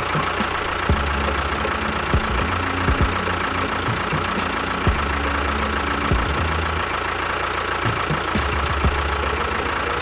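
A small machine running steadily with an engine-like drone and a thin steady whine, with scattered irregular knocks and clicks.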